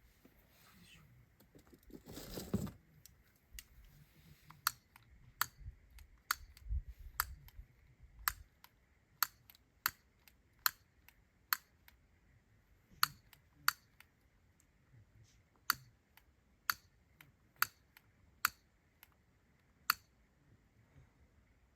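Wood campfire crackling, with sharp irregular pops about once a second. A short burst of rustling noise comes about two and a half seconds in.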